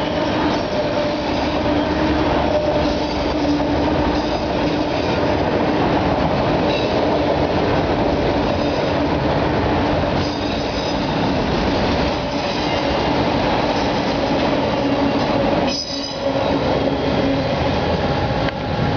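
Freight train of autorack cars rolling past at speed: a steady rumble of steel wheels on rail with a sustained wheel squeal over it. There is a brief drop about sixteen seconds in.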